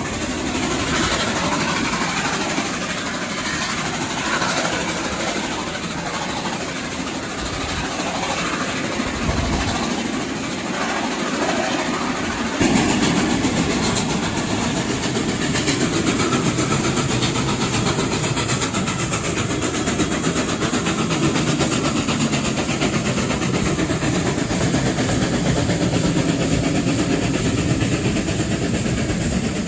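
Inside a passenger carriage of a train hauled by steam locomotive 3801, running along the line with the wheels clattering over the rails. The running noise steps up suddenly, louder and heavier, about halfway through.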